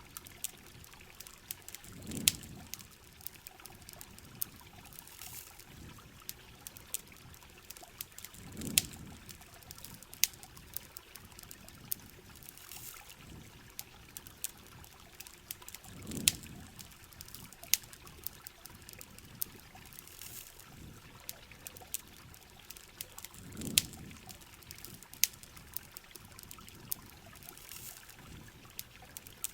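Steady heavy rain with sharp crackles and pops from a campfire, and a low trickling swell of water that comes back about every seven seconds.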